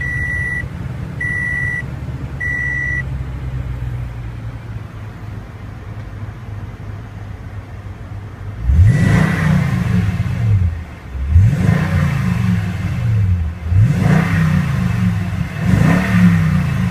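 Toyota Tundra's 5.7-litre i-Force V8 idling just after start-up, with an in-cab warning chime beeping three times in the first few seconds. From about nine seconds in the engine is revved four times, each rev rising and then falling in pitch.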